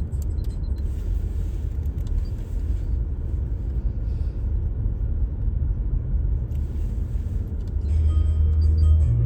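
Steady low rumble of a car on the move, with music playing underneath; a low bass note comes in about eight seconds in.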